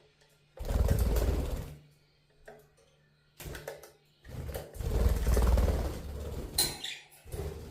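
Budgerigar fluttering its wings while bathing, splashing water in two bursts: a short one about half a second in and a longer one of about two seconds midway, with smaller scuffles near the end.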